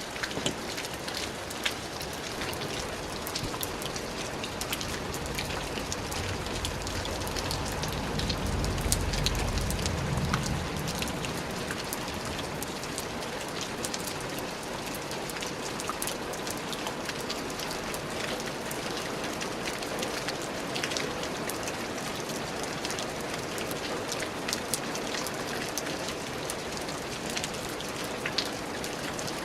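Steady rain falling, a dense even hiss with individual drops ticking and pattering throughout. A low rumble swells for a few seconds about a third of the way in, then fades.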